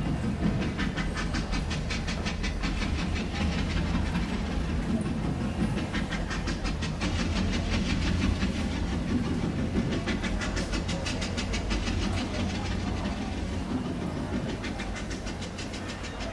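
A train running on rails: a steady low rumble with a fast, even clickety-clack of wheels over the rail joints, growing fainter near the end.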